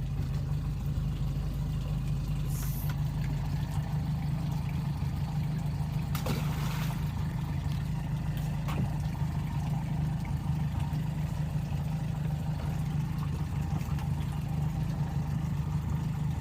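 Boat engine running steadily with an even low drone, a brief rush of hissing noise about six seconds in.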